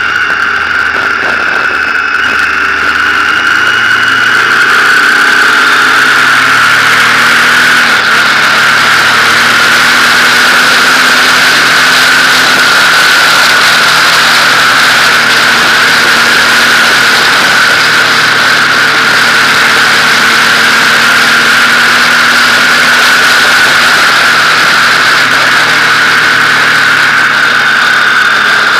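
Motorcycle engine running under way, its pitch drifting with the throttle, under a loud steady rush of wind noise that gets louder about four seconds in as the bike picks up speed.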